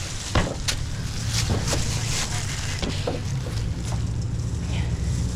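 Vehicle engine running steadily at idle, with a few sharp clicks and knocks over it.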